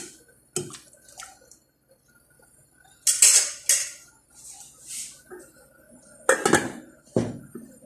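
Metal cooking utensil knocking and scraping against a pot of soup, with a short splashing stretch about three seconds in and two louder clanks near the end.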